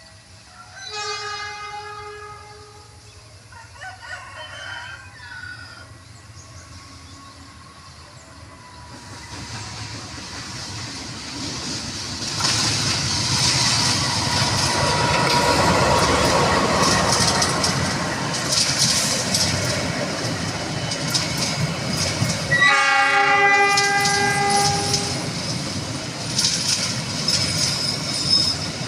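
A train horn sounds about a second in. Then a train approaches and passes close by, its wheels clattering over the rail joints and growing loud. Another multi-tone horn blast comes near the end, lasting a couple of seconds.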